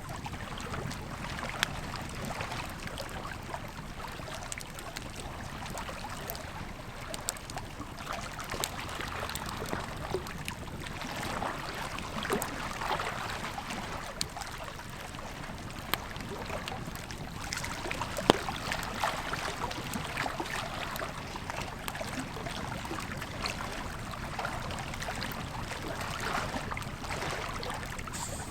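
Campfire crackling with scattered sharp pops, one louder pop about two-thirds of the way through, over the steady rush of a flowing river.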